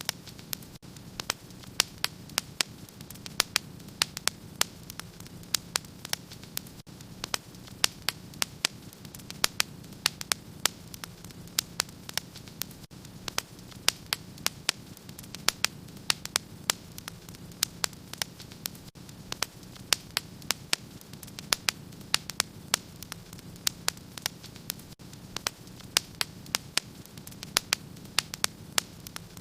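Wood fire crackling in a fireplace: a steady run of sharp pops and snaps, several a second, over a low steady hum.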